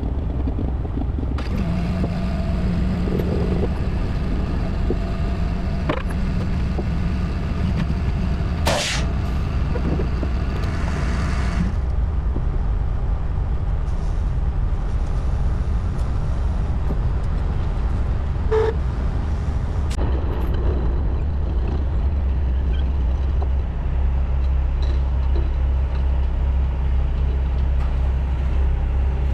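Heavy diesel truck engines running with a steady low rumble. About nine seconds in comes a sharp burst of air, then a shorter hiss, with a few clicks later on.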